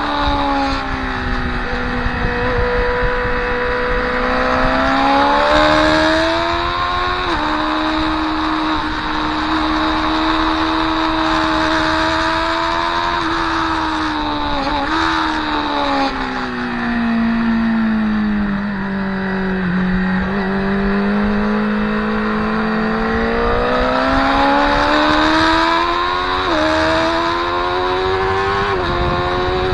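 Motorcycle engine heard onboard at track pace, its pitch falling and rising with speed and broken by a few sudden steps at gear changes: a slow drop from about 13 to 20 seconds in, then a long climb to the end, over a constant rush of wind noise.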